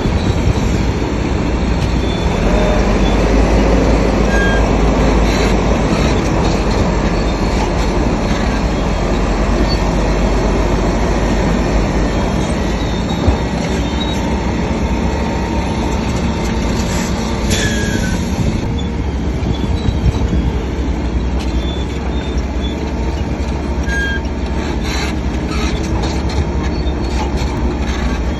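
SHANTUI DH7C3 crawler bulldozer running steadily under load, its diesel engine rumbling under the clatter of its steel tracks. A few short high squeaks come through, with one falling squeal about two-thirds of the way in.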